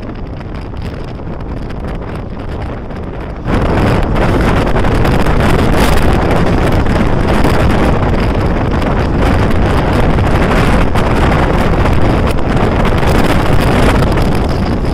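Running noise of a moving express train heard from an open coach doorway, with wind buffeting the microphone. About three and a half seconds in it abruptly gets much louder, with a rapid clatter of knocks running through it.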